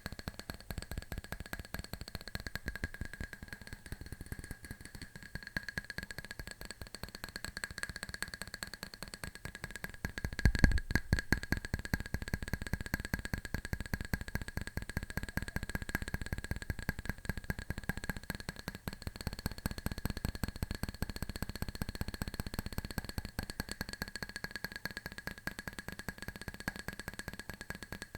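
Fingernails tapping very fast on a hard object, a dense run of clicks with a steady ringing tone over it. The tapping grows louder about ten seconds in.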